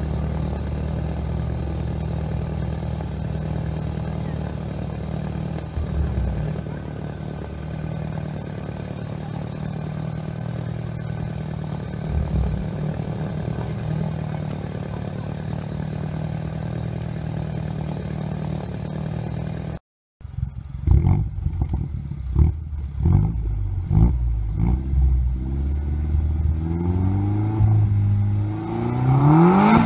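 Tuned Peugeot RCZ's 1.6 THP turbocharged four-cylinder idling steadily for about twenty seconds. After a brief break it is revved repeatedly through its twin exhaust, the pitch rising and falling with each blip, the revs climbing higher near the end.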